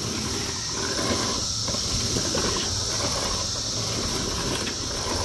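Push lawn sweeper's rotating brushes and gears clattering steadily as it is pushed over grass thick with dead cicadas. A constant high-pitched cicada chorus sounds behind it.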